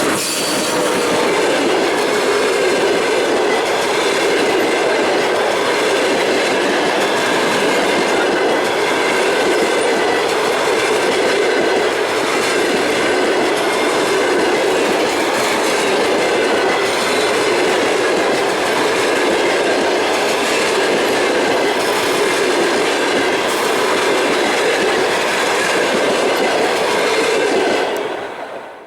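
Passenger train running past at speed: a steady, loud rolling noise of the coaches' wheels on the rails, holding level throughout and falling away sharply at the very end.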